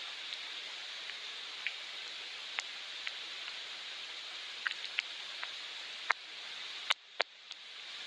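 Gentle rain falling as a steady hiss, with scattered individual drops ticking through it. Near the end the hiss drops off abruptly and then slowly swells back.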